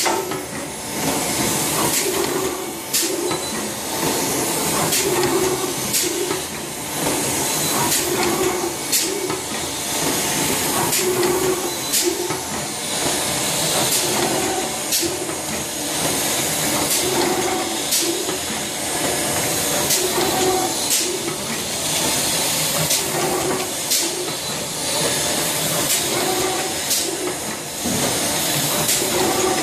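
Vertical pudding-powder packaging machine running in steady cycles: a constant hiss with a sharp click roughly once a second and a pulsing mechanical beat.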